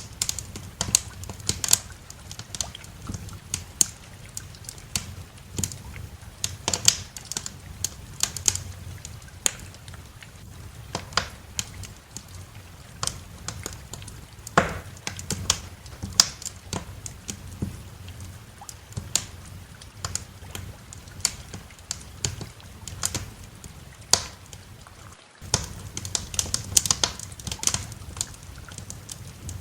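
Wood fire crackling, with irregular sharp pops and snaps over a low steady rumble. The sound drops out for a split second about 25 seconds in.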